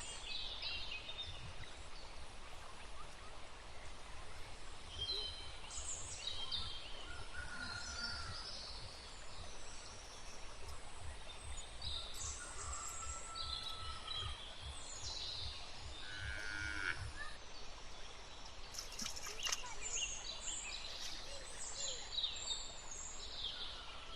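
Open-air rural ambience with a low rumble of wind on the microphone and scattered short bird chirps throughout.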